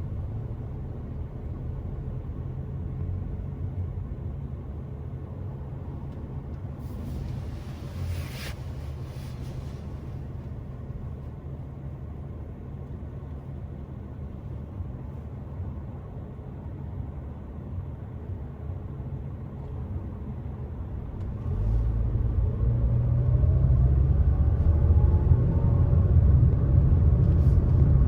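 Car on the move, with a steady low rumble of engine and road noise. About three-quarters of the way in it grows louder and a rising engine note comes in as the car accelerates. A brief hiss comes about a third of the way in.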